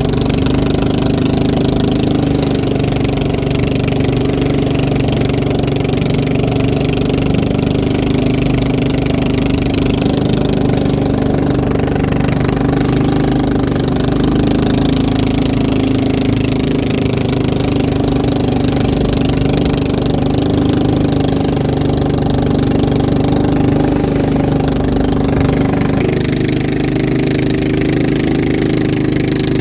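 Boat engine running steadily at a constant speed, close and loud, its tone shifting slightly about 26 seconds in.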